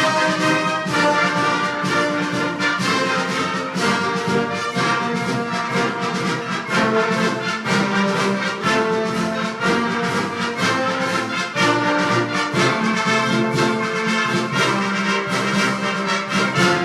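Concert wind band playing a full, brass-led passage of a Christmas band piece, trumpets and trombones to the fore over regular percussion strokes.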